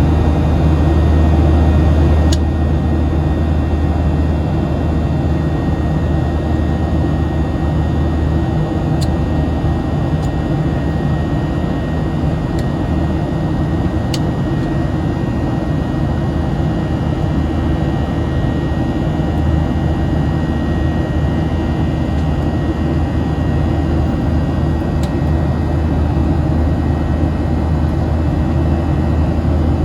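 Steady cabin noise of a Boeing 737-700 in flight, heard from a forward window seat: a constant low rumble of airflow and CFM56 jet engines, with a faint steady high whine and a few faint ticks.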